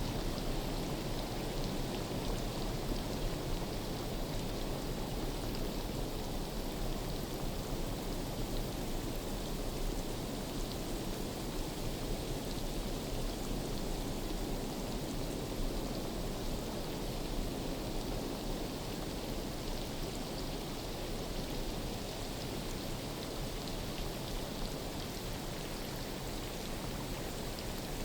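Steady rain falling on forest foliage, a constant patter with scattered drop ticks.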